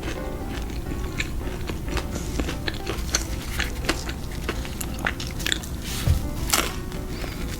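Close-miked eating sounds: chewing with scattered crisp crunches and clicks of fried food, the sharpest about two-thirds of the way in, over quiet background music.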